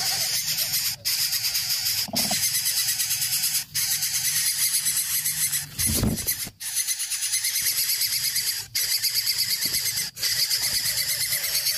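Nestling bird begging, a rapid, continuous string of high-pitched cheeps broken by a few short gaps, with a low thump about two seconds in and a louder one about six seconds in.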